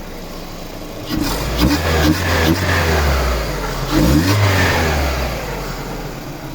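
Hyundai Accent petrol engine, warm, idling and then revved twice with the throttle, about a second in and again about four seconds in, each time rising and settling back to idle. It runs evenly, with no misfire.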